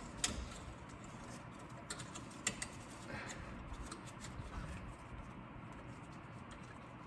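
Scattered light metallic clicks and small knocks from handling brake parts, with two sharper clicks about a quarter second in and about two and a half seconds in.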